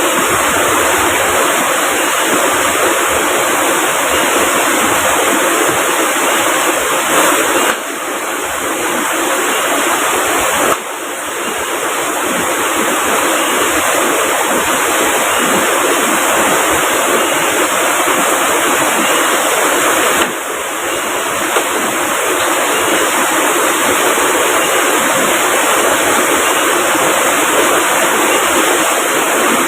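Steady rush of heavy rain and a fast-flowing river, a dense even hiss of water with no break in it. The level dips briefly about 8, 11 and 20 seconds in.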